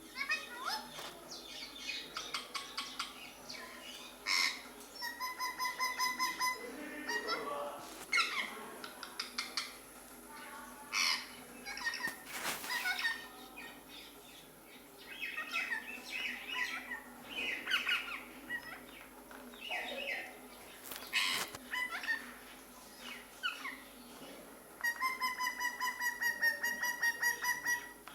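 Parrot chirps, squawks and whistled glides, some from a live parrot and some played back through a phone speaker. Twice there is a rapid buzzy trill lasting a second or more, and a few sharp clicks are scattered among the calls.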